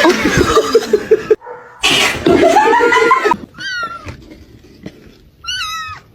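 Two loud, noisy bursts, then a pet cat giving two short chirping calls that zigzag in pitch.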